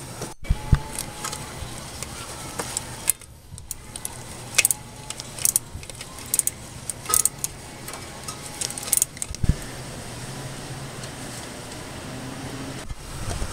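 Scattered light metallic clinks and taps, like tools or metal parts being handled, over a steady low hum.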